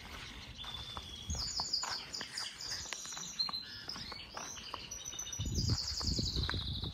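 Small birds chirping, in quick trills of repeated high notes, with a low rumble near the end.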